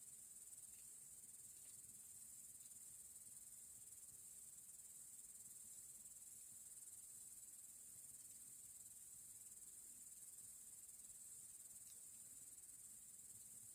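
Crickets chirring in a faint, continuous high-pitched chorus that holds steady throughout.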